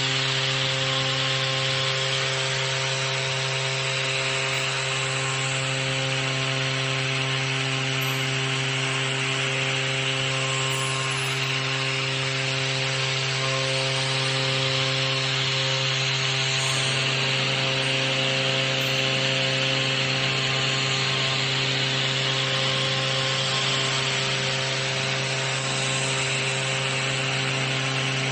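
Tomahawk Pro CNC router milling a plate, its spindle running steadily under a constant hum while the cutter makes a continuous, even cutting noise.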